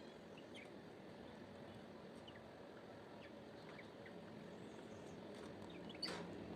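Faint, scattered bird chirps over a steady outdoor background hiss, with one sharp click near the end.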